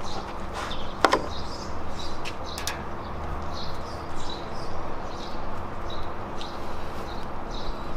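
Small birds chirping over and over in short high calls above a steady low background rumble. There is a sharp click about a second in and another shortly after.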